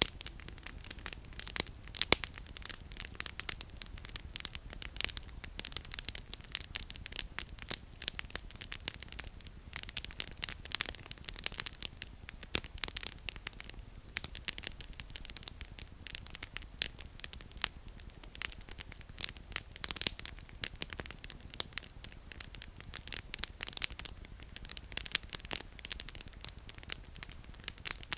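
Campfire firewood burning and crackling steadily, with a dense, irregular run of small snaps and a few louder pops.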